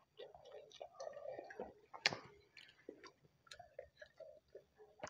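Close-up eating sounds: chewing and small wet mouth clicks, with a sharper click about two seconds in.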